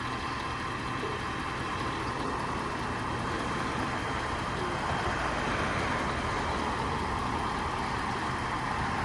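Vehicle engines idling steadily, with a broad rush of noise that swells slightly in the middle.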